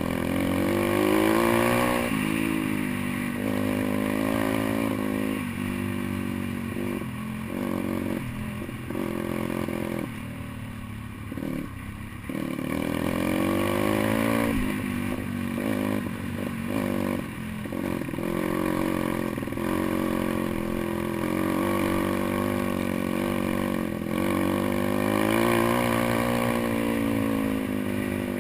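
Pit bike's small single-cylinder engine under way off-road, revving up and dropping back again and again as the throttle opens and closes. Several short stretches about five, ten and fifteen seconds in fall back toward a lower engine sound.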